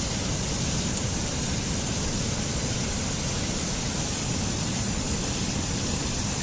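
Steady, loud static hiss, even and unchanging, spread from low rumble to high hiss with a brighter band high up.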